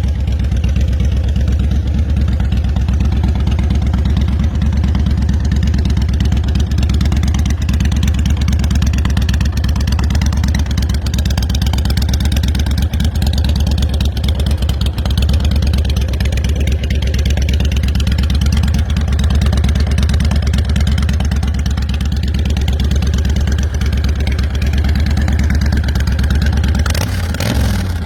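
2012 Honda Fury's V-twin engine running steadily through an aftermarket exhaust, with a deep, even pulse. It revs briefly near the end.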